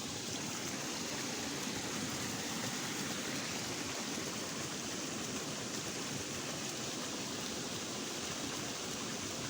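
Swollen drainage ditch rushing fast after heavy overnight rain: a steady, even rush of water.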